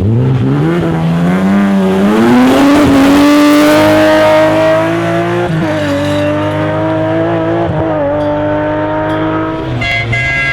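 Rally car engine under hard acceleration, its pitch climbing over the first few seconds. It drops once at a gear change around the middle, climbs again, and eases off near the end.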